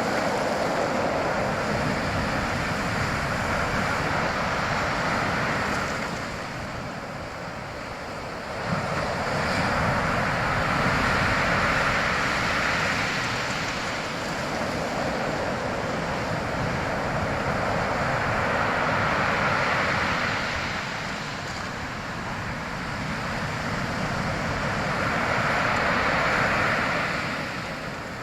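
Waves washing in, a steady rushing noise that swells and fades about every seven to eight seconds.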